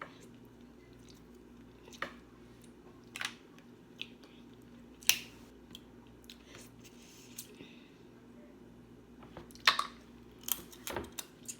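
Close-miked eating of snow crab and shrimp: quiet chewing with scattered short, sharp clicks and snaps every second or two, more of them near the end, over a faint steady hum.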